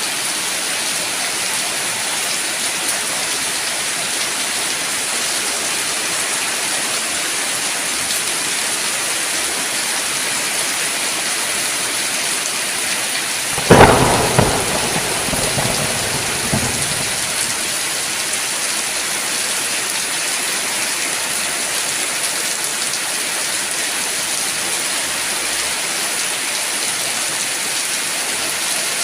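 Steady heavy rain, with a sudden thunderclap about halfway through that rumbles away over a few seconds.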